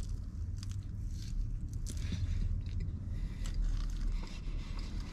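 A person biting into and chewing a soft marshmallow-and-coconut-covered chocolate snack cake, with small wet mouth clicks, over a low steady hum.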